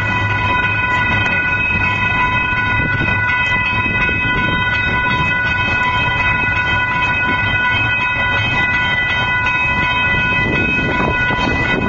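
Union Pacific double-stack freight train rolling through a level crossing with a steady rumble of wheels on rail, while the crossing's warning bell rings continuously on a steady high tone.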